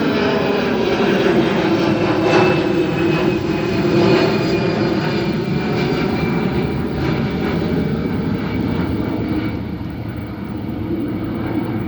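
Airbus A319 airliner's jet engines at takeoff thrust as it climbs away: a continuous loud rushing noise with whining tones that slowly fall in pitch. The sound grows quieter in the last few seconds as the aircraft moves off.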